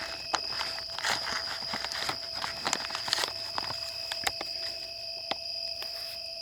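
Irregular clicks and rustling handling noise, thick at first and thinning out after about three seconds: a camp meal of mac and cheese being opened and stirred. A steady high-pitched drone runs underneath.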